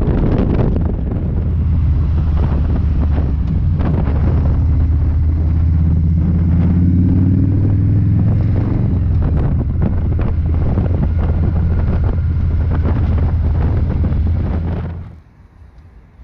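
Harley-Davidson V-twin motorcycle engine running at motorway speed, with heavy wind noise on the microphone. The engine pitch shifts around the middle, and the sound cuts off abruptly about fifteen seconds in.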